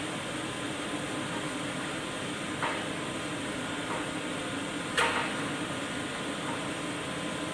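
A steady machine hum, with two short metallic clinks about two and a half seconds apart.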